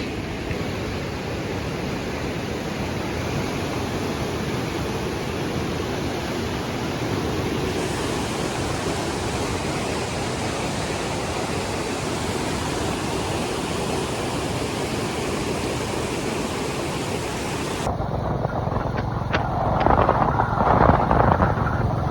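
Steady rush of river water. Near the end a louder, rougher sound with a few sharp knocks takes over.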